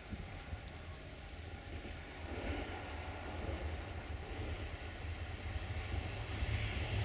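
Siemens Desiro diesel multiple unit approaching along the line, a low engine and rail rumble growing steadily louder.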